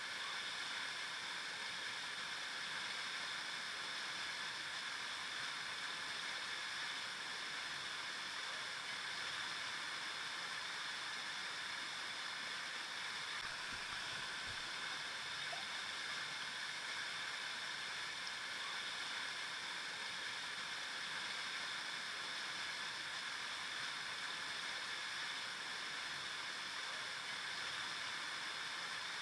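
River water flowing over rocks: a steady rushing and gurgling.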